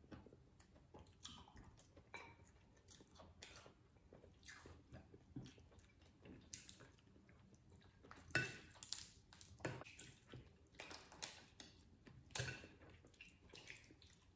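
Close-up eating sounds: chewing and wet mouth noises of people eating lobster and noodles, with scattered sharp clicks and small cracks, the loudest a little past halfway.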